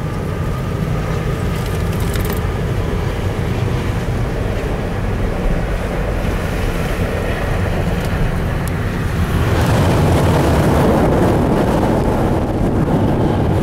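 CSX diesel locomotive running steadily as it crosses a steel railroad overpass, with a low engine rumble. About nine and a half seconds in, a louder rushing rumble of the train on the bridge overhead joins it.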